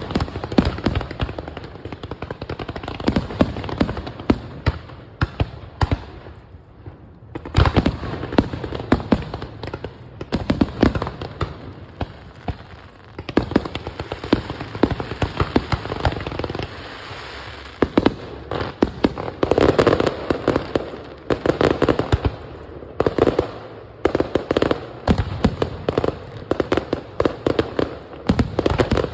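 Fireworks going off in rapid volleys of sharp cracks and pops, with a brief lull about seven seconds in.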